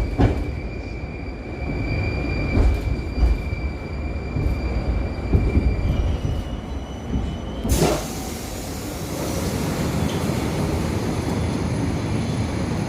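Moscow Metro train slowing to a stop at a station, its traction motors whining in steady high tones over a low rumble, the whine stepping up in pitch about six seconds in. About eight seconds in comes a sudden rush of noise as the doors open, then a steady hiss.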